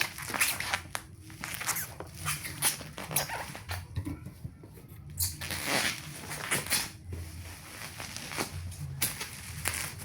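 Irregular rustling and handling noises of packaging being opened: short scrapes and crinkles, with a quieter pause about four seconds in.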